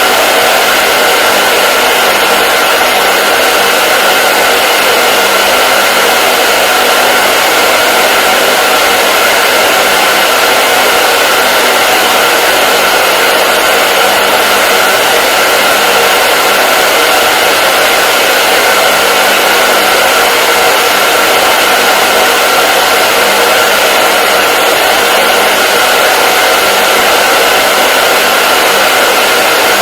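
Hair dryer running continuously at a steady speed: an even, unbroken hiss of rushing air with a steady motor hum.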